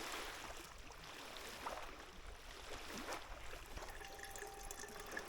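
Faint water sounds: gentle sloshing and trickling of lake water.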